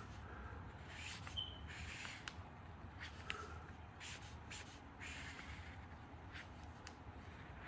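Alcohol marker strokes across paper: a series of irregular short, scratchy swipes over a faint low hum.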